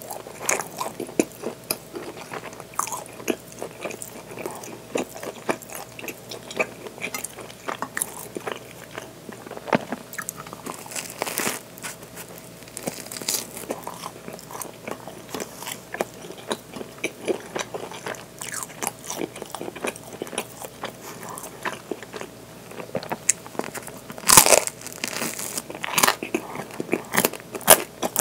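Close-miked eating: biting into and chewing a soft baked bread bun with a filling, with wet mouth smacks and soft crackles of the crust throughout. The loudest bite comes about 24 seconds in.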